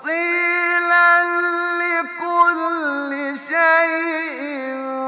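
A man's voice chanting Quran recitation in the melodic tajweed style, holding one long drawn-out note. The pitch steps down a little about halfway and winds through short ornamental turns before settling on the lower note.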